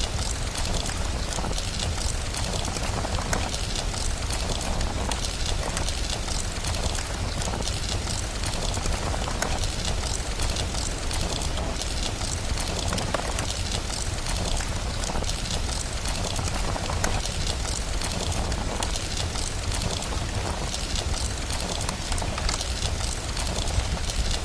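Steady rain mixed with a crackling fire: an even hiss full of tiny crackles over a constant low rumble.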